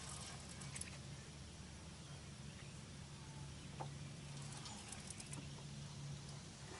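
Faint scattered clicks and ticks from a Piscifun fishing reel as a hooked fish is played on the line, over a low steady hum.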